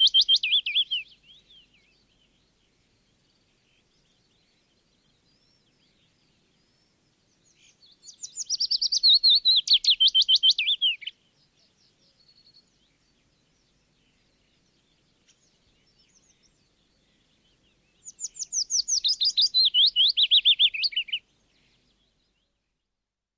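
A songbird singing the same short song three times: each phrase is a rapid run of high, downward-sweeping notes lasting about three seconds that falls in pitch toward its end. The first phrase ends about a second in, the next two come about ten seconds apart, with faint scattered chirps in the gaps.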